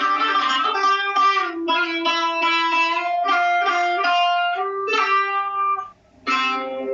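Buzuq, a long-necked fretted Levantine lute, played solo. Quick plucked phrases give way to longer held notes, then there is a brief pause about six seconds in, and a final struck note rings out as the piece closes.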